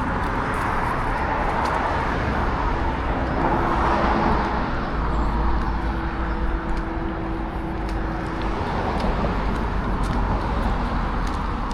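Steady road-traffic noise: a continuous low rumble with tyre hiss that swells and eases a little.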